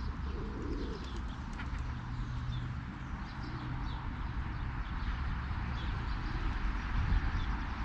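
Pigeons cooing and small birds chirping here and there, over a steady low rumble.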